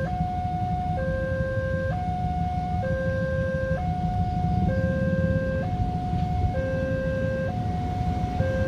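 Railway level-crossing warning alarm sounding a two-tone electronic signal, a higher and a lower tone alternating, each held just under a second, which warns that a train is approaching. A steady low rumble runs underneath.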